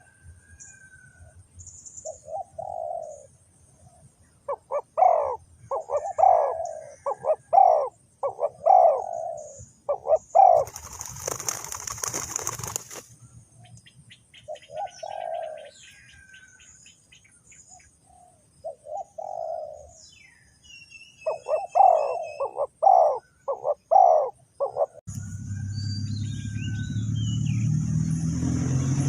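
Spotted doves cooing in low, repeated phrases, with faint high chirps of other birds. A short burst of rustling noise comes about eleven seconds in, and a low rumble starts near the end.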